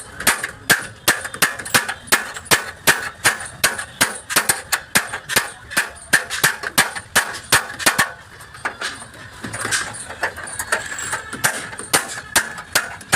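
Hammer beating out dents in the sheet-steel panels of a Tata truck cab: a steady run of sharp metallic blows, about three a second, each ringing briefly. The blows thin out for a couple of seconds about two-thirds of the way through, then pick up again.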